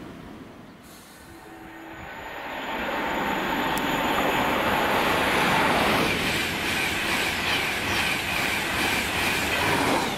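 Express passenger train passing through at speed: a rush of wheel and rail noise that builds over the first few seconds, then stays loud with a steady whine as the coaches go by.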